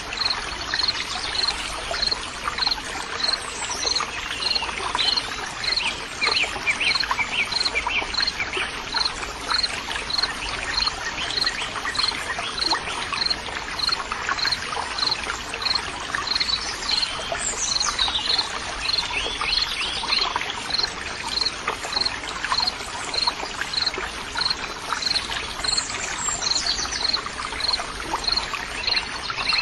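Nature soundscape of running, trickling water with birds chirping. Through it runs a steady series of short, high chirps, about two a second.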